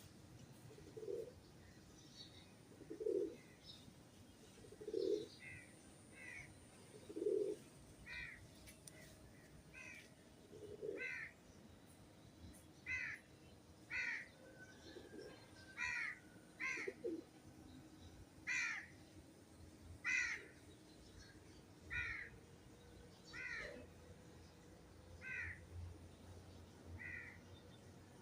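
A crow cawing repeatedly, a short call every second or so, over the low repeated cooing of a pigeon that is heard mainly in the first half.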